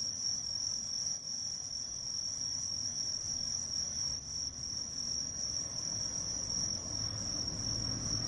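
Bell crickets (suzumushi) singing: a continuous high-pitched ringing trill with no break.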